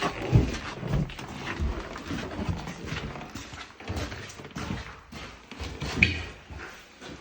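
Footsteps thudding unevenly on wooden floorboards, with a sharper knock about six seconds in, like a door or board being struck.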